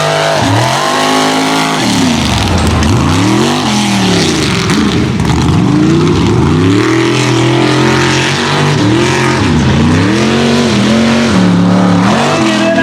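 Mud-racing vehicle's large engine revving up and down over and over, its pitch rising and falling every second or two.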